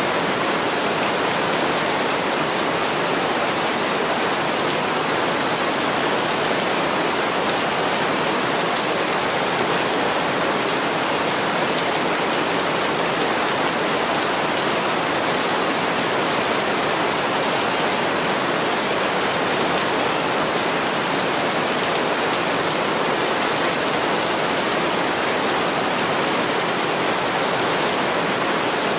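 Heavy rain falling steadily on a window, an even hiss that never lets up.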